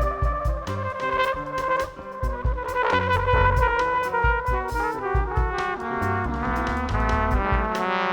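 Small jazz quartet playing: a trumpet holds and moves between sustained melody notes over piano, double bass and a drum kit with frequent cymbal strokes.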